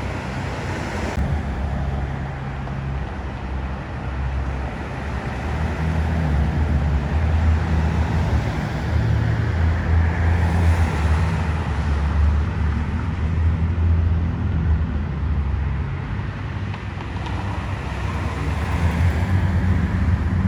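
Road traffic: car engines giving a low rumble over a haze of tyre and road noise, getting louder for several seconds in the middle.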